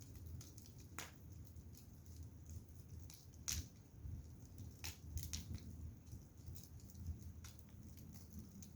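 Wood fire crackling quietly: scattered sharp pops at irregular moments over a low steady rumble, the loudest pop about three and a half seconds in.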